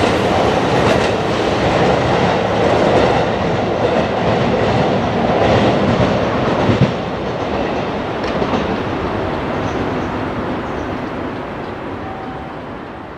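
A JR Kyushu 415 series electric multiple-unit train pulling away along the track. Its running noise is loud at first, gives one sharp knock about seven seconds in, then fades steadily as the train draws off into the distance.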